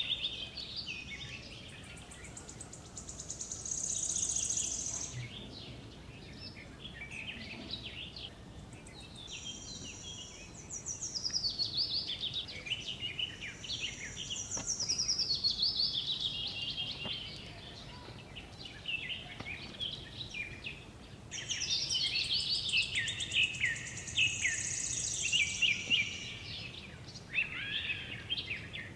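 Wild birds chirping and calling in overlapping quick high notes and trills. The calls come in several bouts with quieter gaps between, busiest in the second half.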